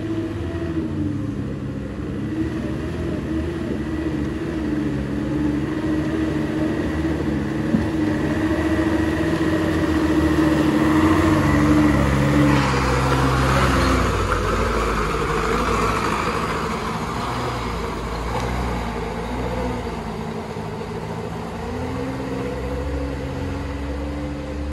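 Loaded truck's engine labouring uphill, its revs rising and falling several times. It is loudest around the middle of the stretch, then eases off and picks up again near the end.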